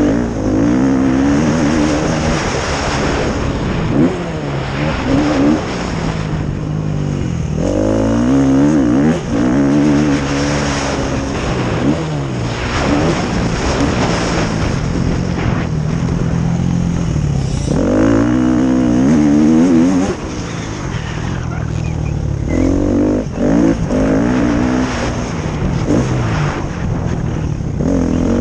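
Motocross bikes racing, several engines at once, each revving up hard and dropping back again and again as the riders accelerate, shift and brake around the track.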